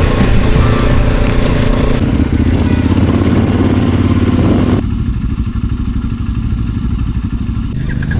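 Adventure motorcycle engine running hard while riding, its pitch climbing over the first few seconds. About five seconds in the sound changes abruptly to a lower, duller engine note with a rapid even firing beat.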